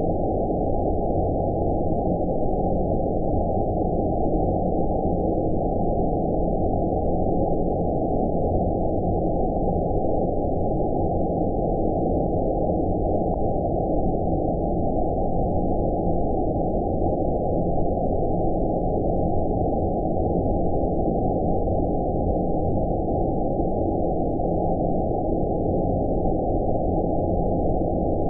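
Steady low, dull rushing noise with all the high end cut away, unchanging throughout: synthetic 'outer space' ambience of low-pass-filtered white noise made as a sleep sound.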